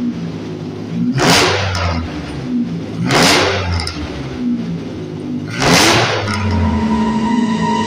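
Dodge Ram van's V6 engine with the muffler deleted, blipped three times in short revs about two seconds apart and dropping back to idle between them. Near the end, steady tones come in under the idle.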